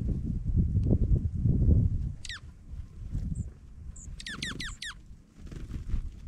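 Junco calls: one sharp falling note about two seconds in, then four quick falling notes in a row, with a few short high chips. Low rustling and knocking noise is heavy for the first two seconds, then fades.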